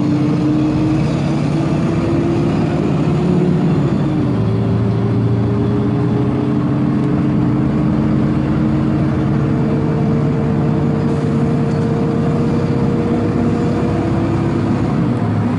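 Four-cylinder diesel engine of an Agrale MT 17.0 LE city bus running under way. Its pitch shifts about four seconds in, climbs slowly and then drops near the end.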